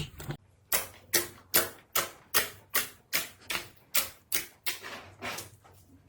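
Slime being handled in a steady rhythm, making a regular series of crisp pops about two and a half a second that grow weaker toward the end.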